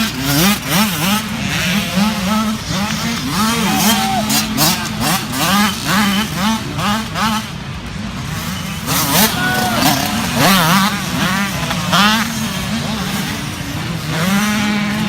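Several small youth dirt bike engines revving, their pitch rising and falling over and over as the riders work the throttle.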